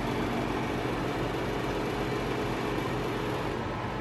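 Fireplace blower fan running with a steady hum and a metal vibration buzzing through the housing, which comes back whenever the housing is not held down by hand.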